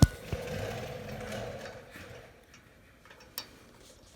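A sharp metal clank, then a hand ratchet wrench clicking as a bolt is run in, fading out after about two seconds. One short tap comes near the end.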